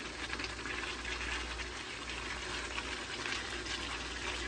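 Chicken pieces sizzling and bubbling in their juices in a non-stick pan on high heat, a steady hiss as the liquid cooks off.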